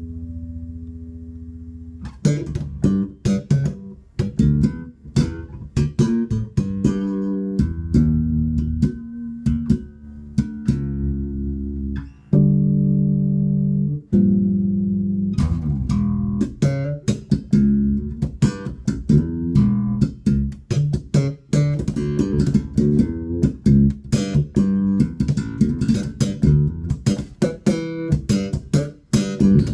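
Solo Spector Euro 4 Classic electric bass with active EMG pickups, played through a Markbass Little Mark 58R combo on a flat amp setting. A held note rings out for about two seconds, then a long run of short, sharply attacked notes.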